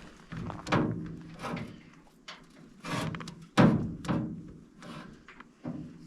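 A series of separate knocks and thunks, some with a short ring, the loudest a heavy thunk about three and a half seconds in.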